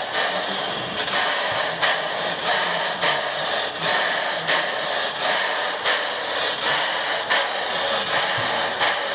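1945 Weir pump running, a steady hiss with a rhythmic puff of exhaust about every 0.7 seconds as it strokes.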